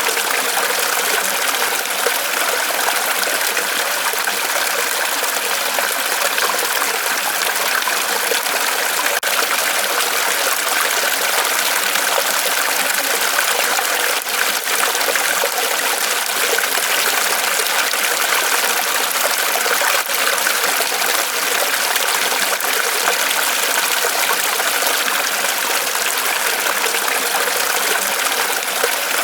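Small waterfall of water trickling and splashing steadily off a tree trunk.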